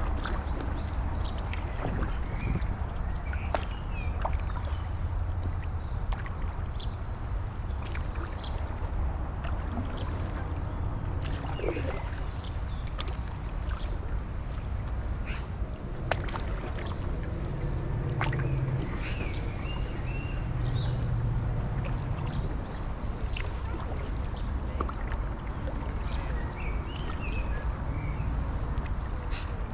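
Stand-up paddleboard paddle dipping and splashing in canal water, with many short bird chirps throughout and a steady low rumble of wind on the microphone.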